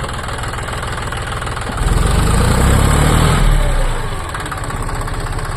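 John Deere tractor's diesel engine running with a steady beat, revving up for about two seconds in the middle and then dropping back to a lower speed.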